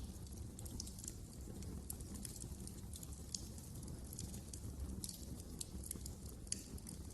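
Wood fire crackling: irregular sharp pops and snaps over a low, steady rumble, with the loudest pop about six and a half seconds in.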